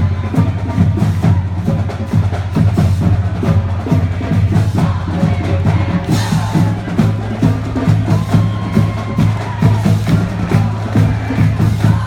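Marching band playing, with drums keeping a quick, even beat over a low note held throughout.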